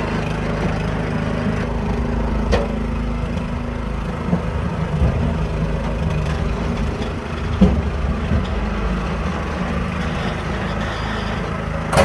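Small engine running steadily, with a few short knocks.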